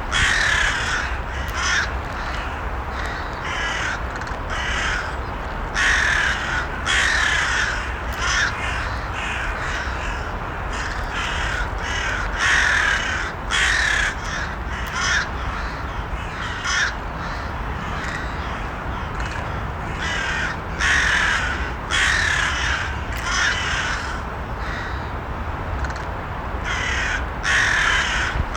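Crows cawing repeatedly, short harsh calls every second or two, over a steady low background noise.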